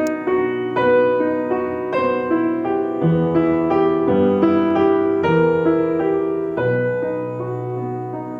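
Piano playing a slow passage, notes and chords struck about once a second and left to ring.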